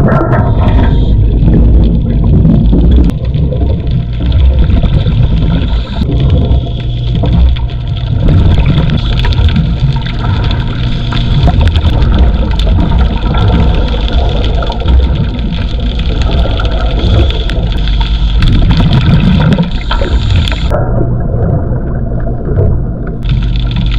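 Loud, steady low rumble of running machinery with a constant hum, mixed with water gurgling and bubbling; the upper hiss drops away briefly near the end.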